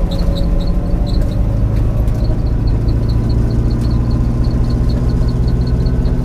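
A 1991 Ford Mustang LX's 5.0 V8 running steadily at low revs, its note rising slightly about a second in, with a faint, quick high ticking over it.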